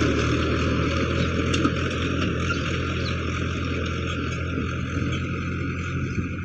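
Tractor engine running at a steady speed, a constant low drone with no change in pitch.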